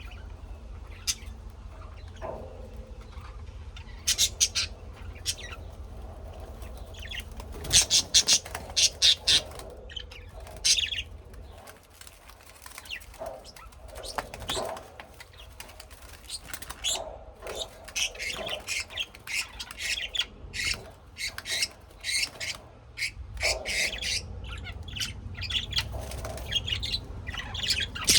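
Birds chirping and calling in short, sharp bursts that come in clusters, over a steady low rumble.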